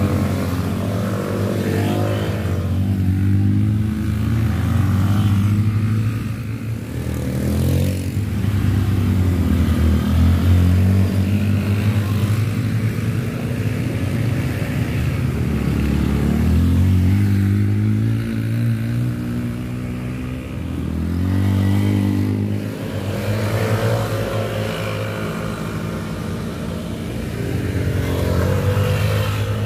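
Motorcycle engine pulling hard uphill on a steep climb, run at high revs. Its note dips and climbs again several times as the throttle and gears change.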